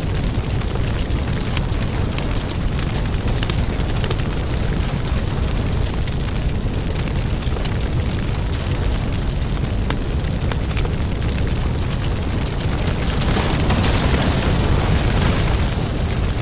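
Wood fire burning in a fireplace: a steady low rumble with frequent sharp crackles and pops. It swells louder and hissier for a couple of seconds near the end.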